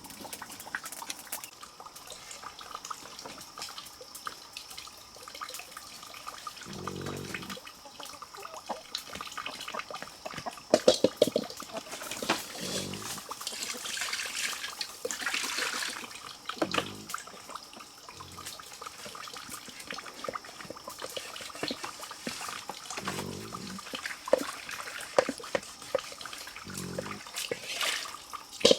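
Water running or trickling steadily, with a few short animal calls now and then and scattered clicks.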